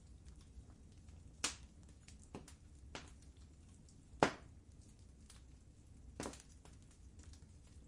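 Wood fire crackling in a fireplace: a handful of sharp, scattered pops over a low steady rumble, the loudest a little past the middle.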